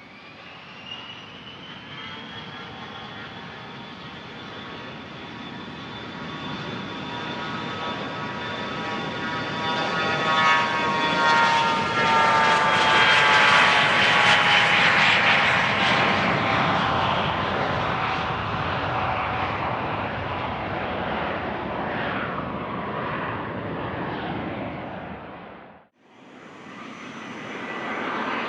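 Bombardier Challenger 300 business jet's turbofans passing by: the engine noise swells to a peak and fades, with a whine that slides down in pitch as it goes past. Near the end, an abrupt cut to another business jet's engines, a Bombardier Global 6000.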